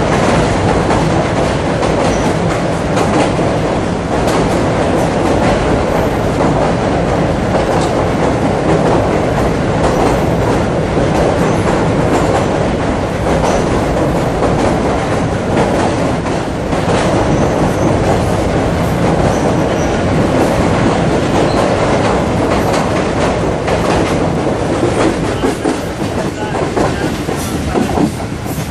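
Passenger train running steadily: a continuous rumble of wheels on the rails, with clickety-clack knocks as the wheels pass over rail joints.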